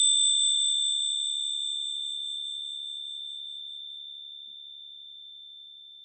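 Commemorative metal medal ringing after a single strike: one clear, high, bell-like tone that fades slowly and evenly, its higher overtones dying away within the first few seconds.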